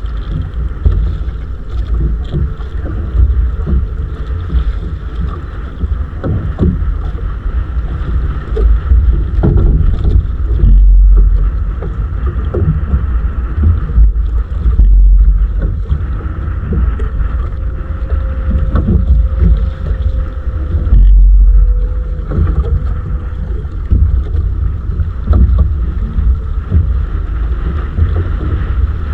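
Wind buffeting the microphone on a small fishing boat at sea, a loud uneven low rumble, with a faint steady hum underneath.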